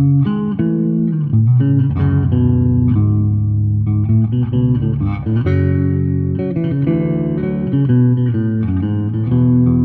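Five-string electric bass played solo, fingerpicking chords and a melody line together, with several notes ringing at once and the chords changing every second or so.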